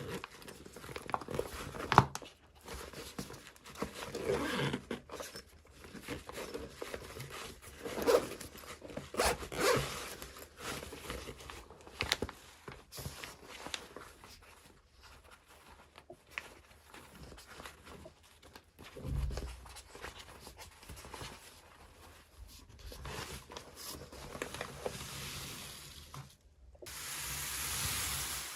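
Toy packaging being torn open and handled by hand: tearing, crinkling and small clicks, ending in a longer steady rip or rustle.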